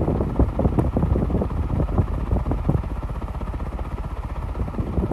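1979 Envirofan Gold Line industrial ceiling fan, with its Evergo-built motor, running on high speed. Its strong airflow hits the microphone as a gusty, fluttering wind noise.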